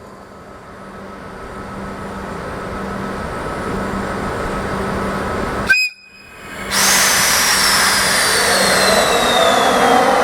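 EF64 0-series electric locomotive with its cooling blowers running, a steady hum that slowly grows louder. After a short break about halfway through, a much louder stretch begins as the locomotive starts away: a high whine falls slowly in pitch while lower tones rise near the end.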